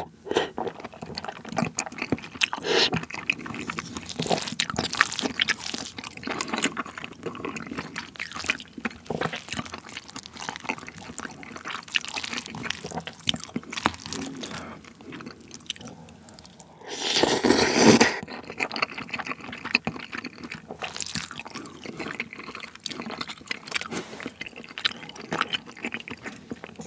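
Close-miked wet eating sounds: a mouth chewing and smacking soft, oily rice mixed with marinated raw crab innards, with many small clicks and smacks. Chopsticks click and scrape in the ceramic bowl, and about seventeen seconds in there is one louder noisy sound lasting about a second.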